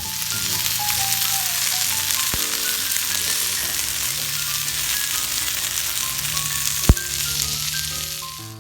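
Food sizzling hard in hot fat over a campfire, a dense steady hiss that fades near the end, with a sharp knock about seven seconds in. Background music plays underneath.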